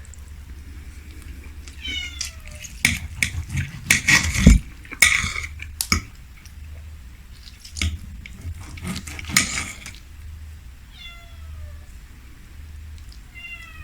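A cat meowing three times, each a short falling call. Between the meows come loud bursts of clicking and clattering from eating and cutlery, loudest about four to five seconds in and again near ten seconds.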